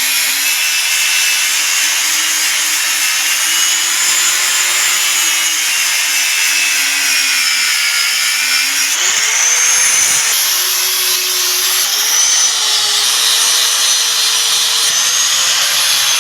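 Electric grinder working steel, a steady motor hum under a loud grinding hiss, its pitch drifting as the pressure on it changes. The pitch steps up sharply about nine seconds in.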